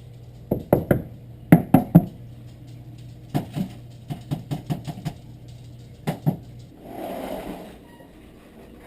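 Sharp knocks and scrabbling taps from a bird trapped inside a metal house vent duct as it moves around, in several quick clusters, followed by a short rustle near the end.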